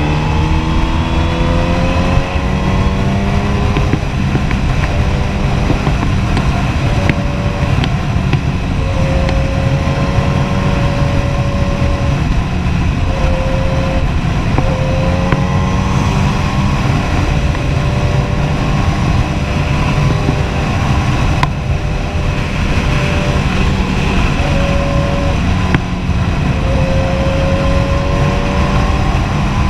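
Kawasaki Ninja ZX-10R inline-four engine running under way. It rises in pitch as it accelerates at the start, then holds a nearly steady speed with a couple of gentle rises, under a constant rushing noise.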